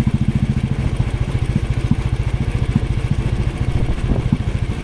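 Motorcycle engine running steadily while riding, its firing strokes making a rapid, even low pulse.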